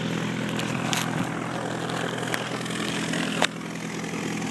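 Light propeller airplane's piston engine idling steadily nearby, with a few sharp clicks, the loudest about three and a half seconds in.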